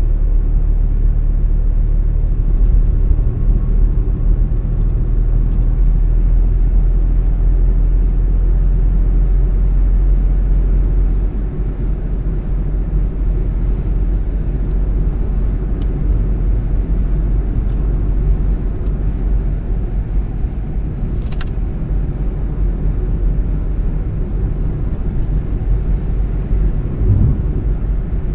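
Car driving on the road: a steady low rumble of road and engine noise, a little quieter from about 11 seconds in. A few faint clicks sound over it, the sharpest about 21 seconds in.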